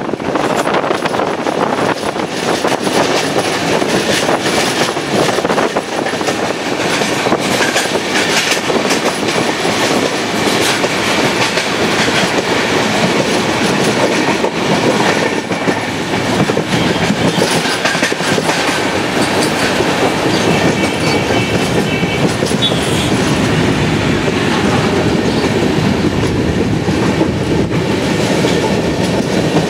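Passenger train running at speed, heard from aboard: steady rumble and rush of the wheels on the track, with wheels clicking over the rail joints.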